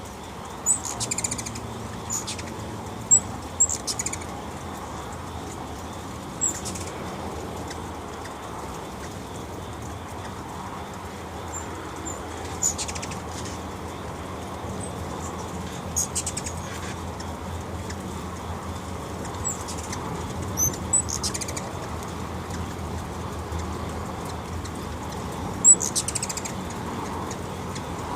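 Hummingbirds at close range: a steady low hum of wings, with short, high chips and squeaks scattered throughout, the loudest near the end.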